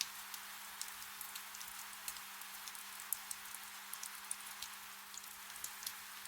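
Soft rain falling: a steady hiss with many single drops ticking irregularly over it.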